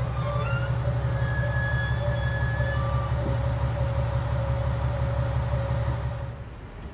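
Train running on rails: a steady low rumble with thin high-pitched wheel squeal over it, the noise dropping off about six seconds in.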